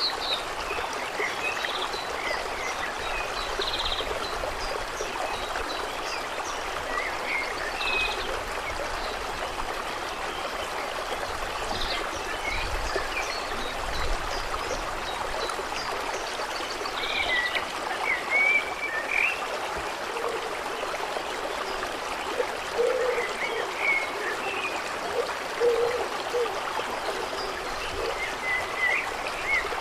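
Steady trickling, running water with small birds chirping now and then throughout. A few short low calls come in the second half.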